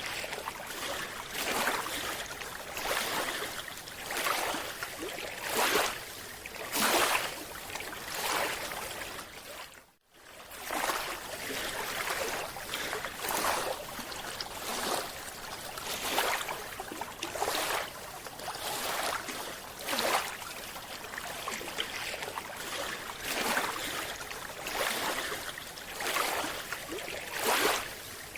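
Water noise heard underwater: a rushing, bubbling wash that swells in surges about every second or so. It drops out briefly about ten seconds in.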